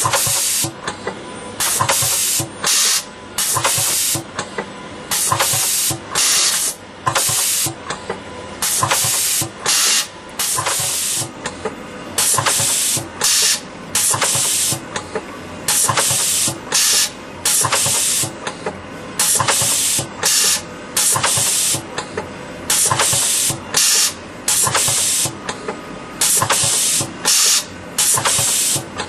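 Colombi C513T CNC in-line spring coiler running, with short bursts of hiss about once a second, somewhat irregularly spaced, over a steady machine hum.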